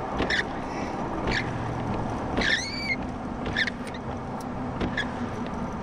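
Steady road and wind noise inside a moving vehicle's cabin, with several short, sharp high-pitched chirps or squeaks, one of them gliding, about two and a half seconds in.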